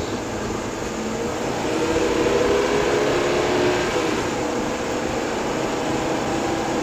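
Inside the cab of an RV driving at speed: steady road and wind noise with an engine drone, getting a little louder about two seconds in.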